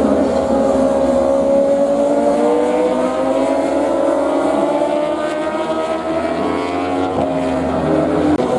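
Several racing motorcycle engines running at high revs, their overlapping notes sliding down in pitch early on and climbing again through the middle as the bikes pass and accelerate.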